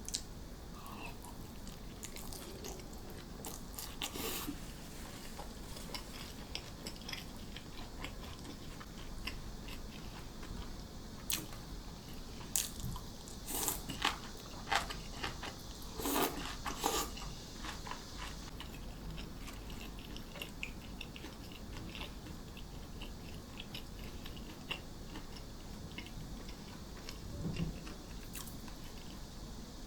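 A person chewing and biting crunchy food close to the microphone. Sharp crisp crunches come now and then, bunched in a flurry in the middle, between quieter chewing.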